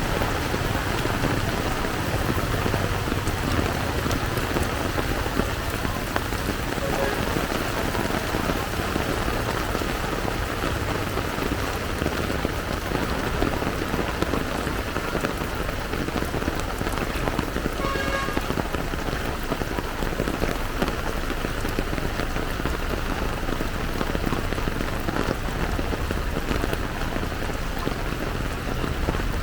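Heavy downpour pouring steadily, a dense, even hiss of rain. A brief pitched tone cuts through about two-thirds of the way in.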